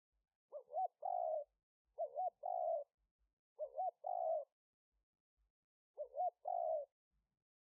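Spotted dove cooing, its call phrase repeated four times: two short, quick coos and then a longer, drawn-out coo, with pauses of about a second between phrases.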